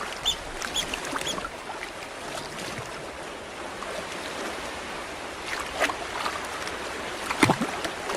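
River otters splashing in flowing river water, with sharp splashes about six seconds in and, loudest, near the end. A few short high chirps come in the first second or so.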